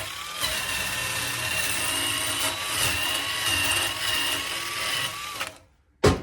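High-speed electric power tool with a wire brush running steadily against a small metal part, cleaning the accelerator pedal's return spring; a steady high whine with a hiss of bristles on metal, cutting off about five and a half seconds in.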